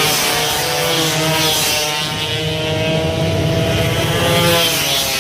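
Several two-stroke racing motorcycles running hard, their engine notes rising and falling as they rev and shift.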